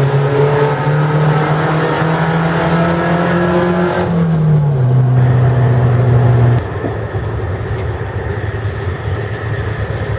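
Car engine pulling under acceleration, its note rising slowly, then dropping about four seconds in as for a gear change. A few seconds later the engine note stops abruptly and a steadier, quieter rush of road noise takes over.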